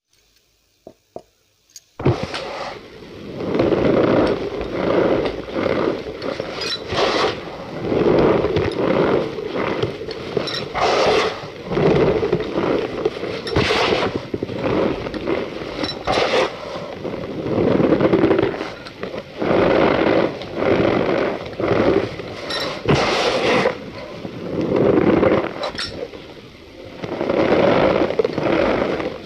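Cornstarch powder being squeezed and pressed by hand, making a squeaky, crunching scrape that starts about two seconds in and swells and fades in repeated strokes every second or two.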